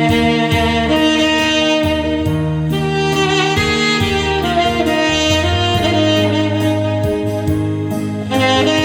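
Tenor saxophone playing a slow, lyrical melody in long held notes, over a backing track with a bass line and a light steady beat.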